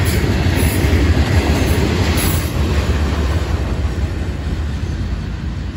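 Freight train hopper cars loaded with rock rolling past on the rails, a steady low rumble of wheels on track that fades gradually as the end of the train moves away.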